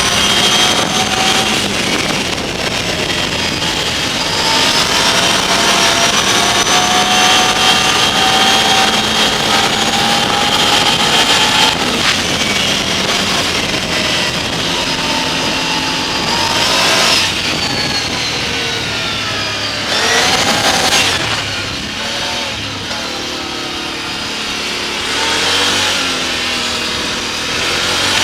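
Can-Am's engine under way, its pitch climbing steadily and then dropping sharply several times as it changes speed, with wind rushing over an action camera's microphone.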